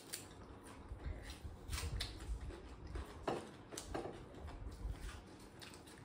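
Close-up eating sounds: chewing and crunching of raw greens and food eaten by hand, heard as irregular soft crunches and mouth clicks.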